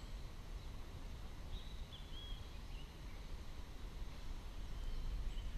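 Quiet outdoor ambience: a few short, faint bird calls over a steady low rumble.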